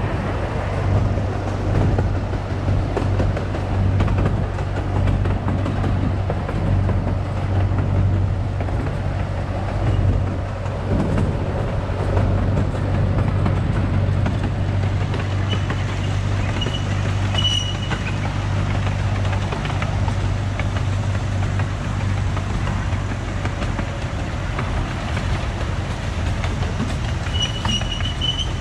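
Miniature amusement-park train running steadily along its track: a continuous low rumble of wheels on rail and the running locomotive, with a few faint brief high-pitched squeaks a little past halfway and near the end.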